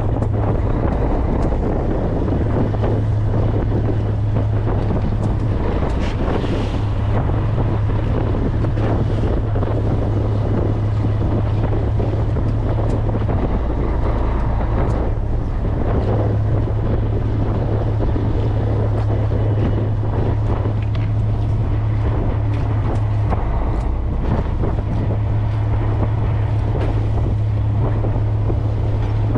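Fishing boat's engine running steadily, a constant low drone, with wind buffeting the microphone and water rushing against the hull.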